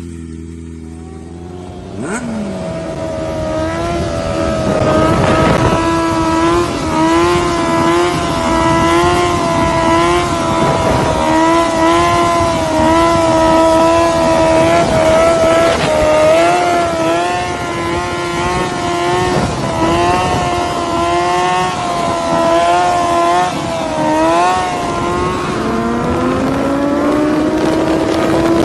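Motorcycle engine held at high revs, its pitch wavering slightly. It starts about two seconds in and rises as the bike accelerates near the end.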